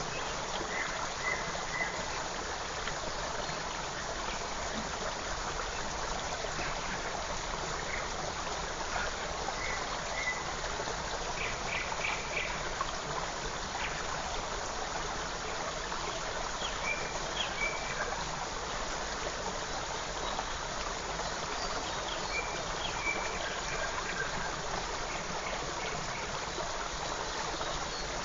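Small forest creek running and trickling steadily, with scattered faint bird chirps in short high notes over it.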